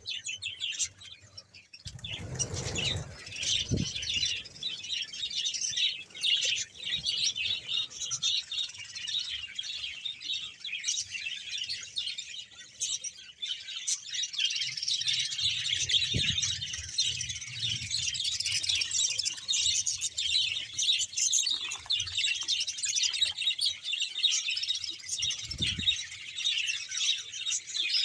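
A colony of budgerigars, about a hundred pairs, chattering and chirping together without a break. A few low thuds come through about two seconds in, around the middle, and near the end.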